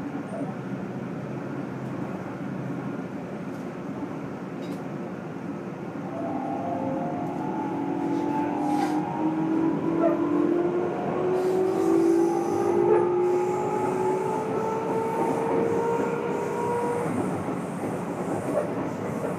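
Running noise inside a Keikyu N1000 motor car, with a steady hum of wheels on rail. About six seconds in, the Toyo IGBT VVVF inverter and MB-5121-A traction motors start to whine in several tones that slowly rise in pitch as the train powers up, then cut out near the end. This set is known for unusually loud, abnormal motor noise.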